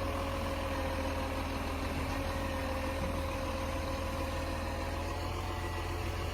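Garbage truck engine idling steadily: a low, even hum with faint higher tones that drift slightly in pitch.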